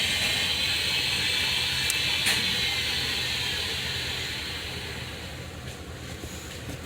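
Car engine idling with a low steady hum under a hiss that slowly fades over several seconds; a couple of faint clicks about two seconds in.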